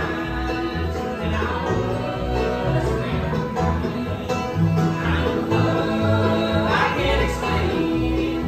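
Live bluegrass band playing a tune at a steady driving tempo, with banjo picking over a pulsing bass line.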